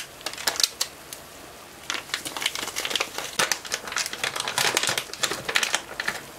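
A spoon scraping and clicking quickly against a frying pan as dry breadcrumbs and sugar are stirred while they toast. A few scrapes at first, then a busy run of them from about two seconds in until near the end.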